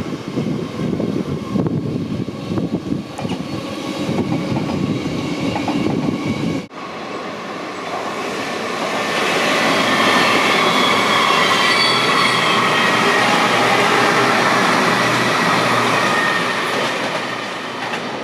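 Passenger train passing on the rails: wheel and track noise rises over several seconds and fades, with steady high-pitched tones over the rumble. Before that, a low rumble with scattered clicks, which cuts off sharply about seven seconds in.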